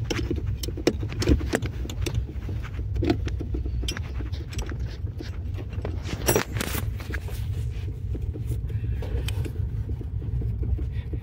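Road and tyre rumble heard from inside the luggage compartment of a moving Renault on a rough road, with scattered light metallic clicks and clinks; the loudest comes about six seconds in. No sharp knock comes from the rear strut, whose top nut has just been backed off slightly to cure that knock.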